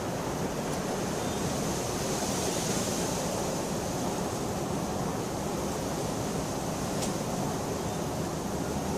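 Steady rain falling, an even hiss and patter, with one faint click about seven seconds in.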